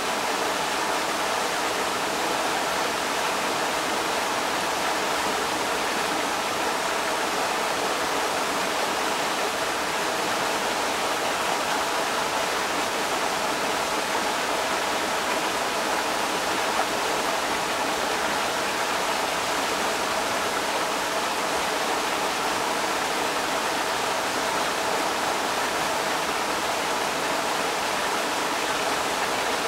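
Creek water rushing steadily over rocks, a constant even hiss and splash.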